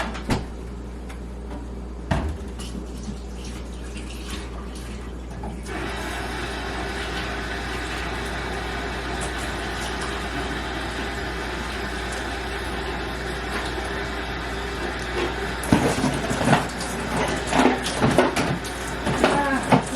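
Spoiled milk being dumped down a kitchen sink, with water running into the sink from about six seconds in. A few knocks and clatters come near the end.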